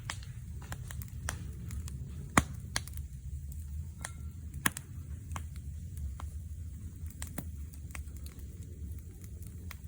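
Wood fire crackling: scattered irregular pops and snaps over a steady low rumble, with two sharper, louder pops about two and a half and four and a half seconds in.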